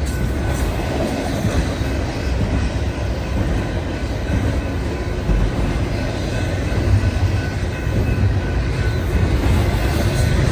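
Freight cars of a Union Pacific manifest train rolling past: a continuous rumble of steel wheels on the rails, with faint steady high ringing from the wheels.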